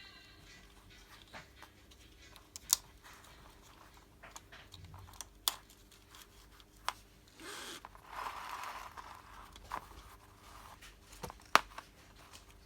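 Sharp clicks and knocks of hand-worked car window regulator parts, a few of them loud, with a stretch of scraping rustle about halfway through.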